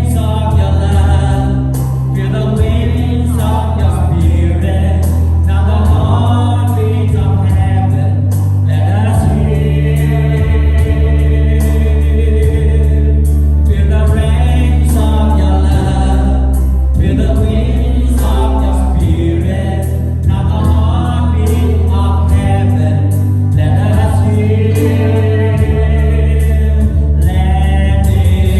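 Gospel worship song with a choir singing over a steady bass accompaniment.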